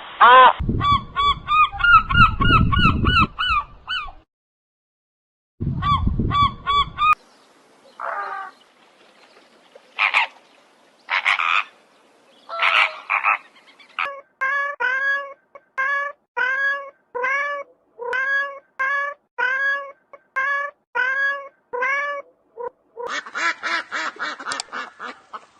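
A series of animal calls in separate short clips: fast repeated calls at first, a few scattered calls, then a steady run of about fourteen evenly spaced calls, roughly one and a half a second, ending in a dense cluster.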